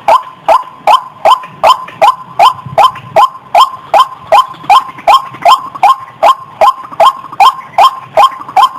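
White-breasted waterhen (ruak-ruak) calling loudly, a monotonous run of identical harsh notes at about two and a half a second.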